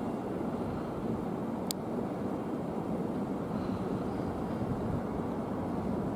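Steady low rumble of an electric train running through the station, with one sharp click about two seconds in.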